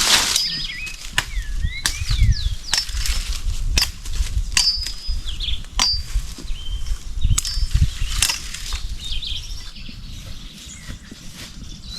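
Birds chirping in short rising and falling calls, with scattered sharp clicks or snaps and a low rumble underneath.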